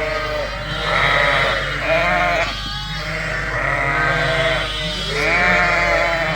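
Many ewes and lambs bleating loudly, their calls overlapping one after another without pause: ewes and lambs calling to find each other after the flock has been moved and mixed.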